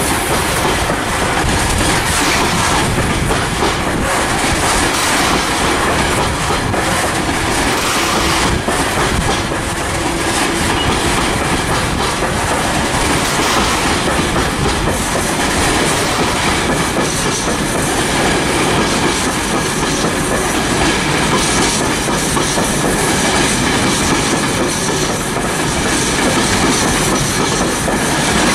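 A long rake of open box freight wagons rolling steadily past, steel wheels clattering over the rail joints over a continuous rolling noise.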